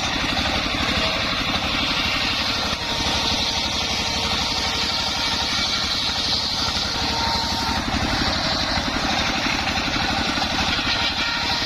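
The engine driving a homemade circular sawmill runs steadily, with a rapid, even pulse.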